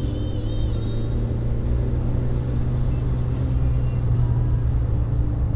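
Škoda 136 car driving at steady revs, heard from inside the cabin: the rear-mounted four-cylinder engine's steady low drone mixed with road noise.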